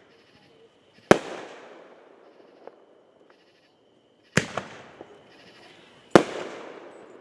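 Fireworks bursting: three loud sharp bangs, about a second in, past the four-second mark and near the end, each followed by a fading echoing rumble, with a smaller pop between the first two.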